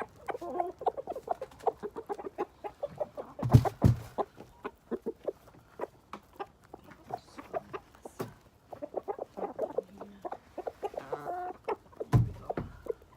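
A flock of chickens clucking steadily with many short calls. Two loud thumps cut in, one about three and a half seconds in and one near the end.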